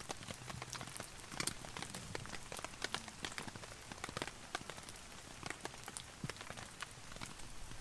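Heavy rain drumming on a nylon camping tarp: a dense, irregular scatter of sharp drop impacts over a steady hiss of rainfall.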